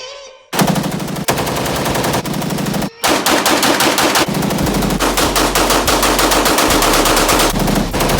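Rapid gunfire in long, continuous strings of shots, fast as automatic fire, breaking off for a moment about three seconds in before resuming.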